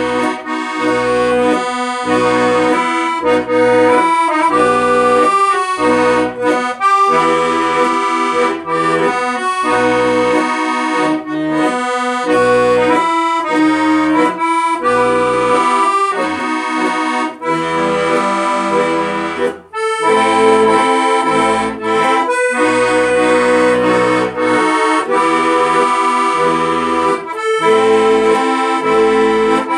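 Accordion playing a tune in sustained chords with a melody over them, with a brief break about two-thirds of the way through.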